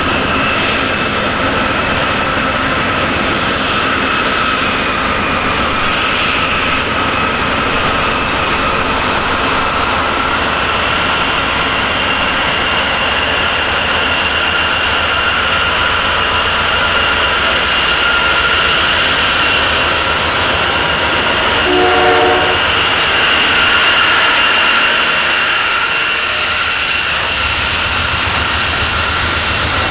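CN diesel freight locomotives CN 2591 and CN 2617 passing close under power, followed by double-stack container well cars rolling by, with a steady high whine over the running noise. A brief pitched tone comes about two-thirds of the way through.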